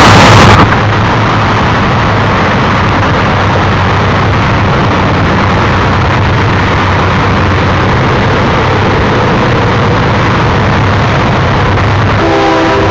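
Diesel freight locomotives running with a steady low rumble and hum. Just before the end, a locomotive air horn starts sounding a multi-note chord.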